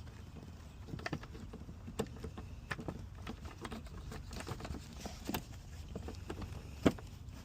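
Scattered light clicks and taps of intake bolts and hand tools being handled while the bolts are started by hand, with one sharper knock near the end.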